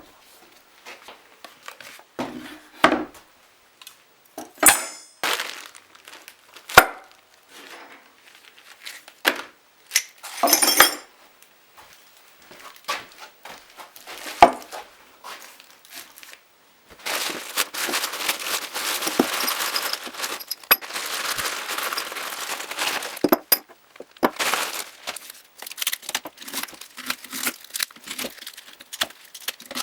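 Tractor spare parts and their packaging being handled: wrapping crinkling and rustling, with scattered knocks and clinks of the parts being set down. There is a longer stretch of steady rustling a little past halfway.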